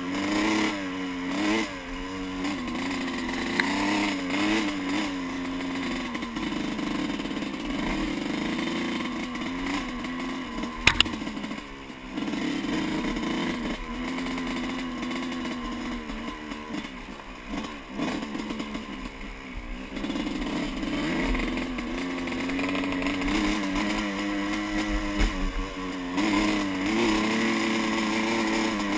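Yamaha YZ125 two-stroke dirt bike engine running under riding load, its pitch rising and falling as the throttle opens and closes, with one sharp knock about eleven seconds in.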